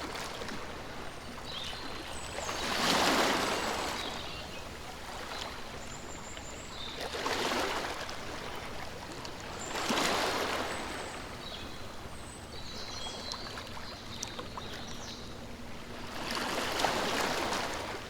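Rushing, water-like noise that swells up and fades away four times over a steady background hiss.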